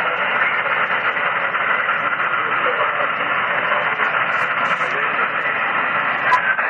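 Single-sideband shortwave receiver audio: steady static hiss filling the narrow voice passband, with the weak voice of a distant station buried in it, barely readable.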